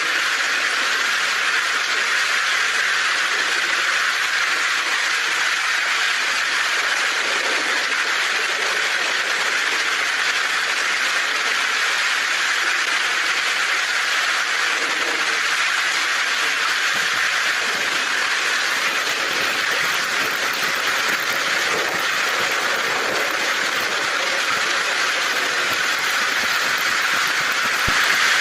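Heavy rain falling on a tin roof, a dense, steady patter and hiss.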